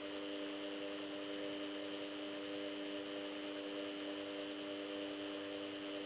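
Samsung WF8804RP washing machine running with a steady electric hum of even, unwavering tones.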